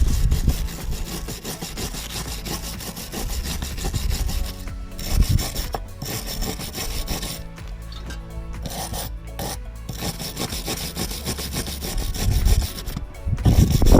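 A brush scrubbing flaky rust off the Honda NC50 motorbike's exhaust, in repeated scraping strokes with a few short pauses.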